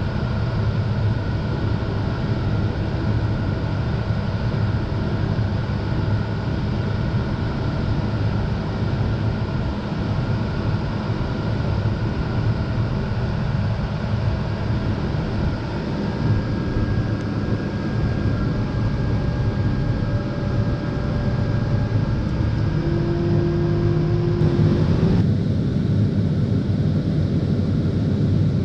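Engine of farm harvest machinery running steadily, a continuous low drone with steady tones over it. Its sound changes abruptly near the end.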